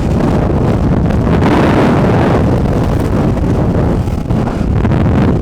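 Heavy wind buffeting the microphone, a loud steady rumbling rush.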